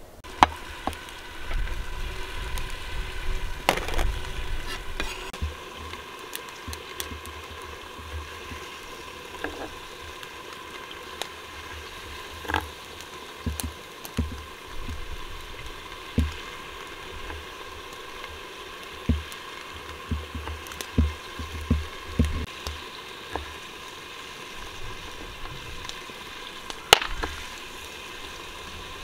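Food sizzling as it fries in hot oil, a steady hiss with scattered sharp clicks and frequent low knocks.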